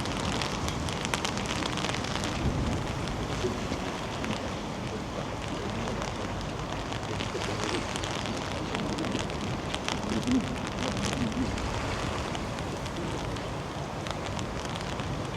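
Steady rain falling, with many sharp drip ticks landing close by over an even hiss.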